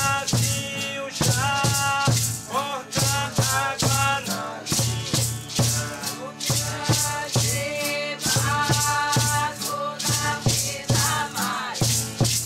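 Ceremonial song: voices singing a gliding melody over hand rattles shaken in a steady rhythm, about two shakes a second, with a regular low beat underneath.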